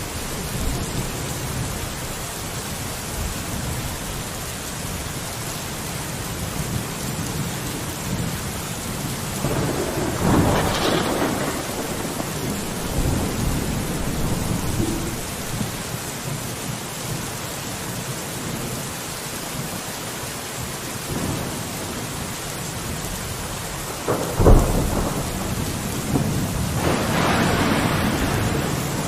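Steady rain falling, with a couple of louder swells and a single sharp, loud crack shortly before the end.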